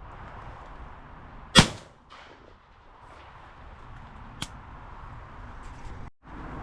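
A single shotgun shot, a loud sharp crack with a brief echo about one and a half seconds in, followed by a much fainter sharp click a few seconds later over a steady open-air hiss.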